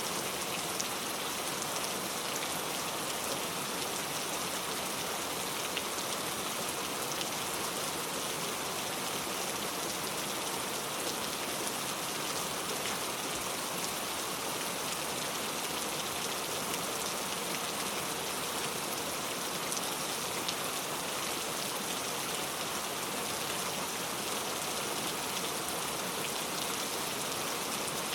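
Heavy rain pattering on a leaf-covered road, a steady even hiss with many small drop taps.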